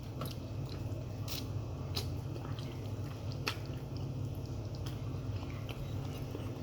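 Close-up chewing and wet mouth sounds of someone eating, with a few sharp clicks, over a steady low hum.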